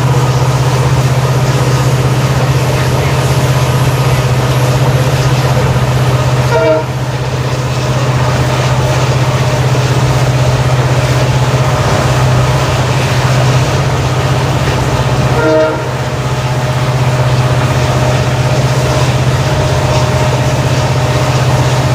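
WDP4D diesel locomotive's EMD two-stroke V16 engine humming steadily under power while hauling the train. Twice, about nine seconds apart, a brief tone sounds over it as the overall level dips for a moment.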